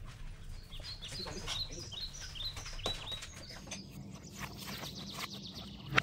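A small bird chirping in a quick series of short falling chirps, about two or three a second, fading out after the first half. Faint knocks from a knife slicing raw beef on a wooden cutting board sound under it, with a sharp knock at the very end.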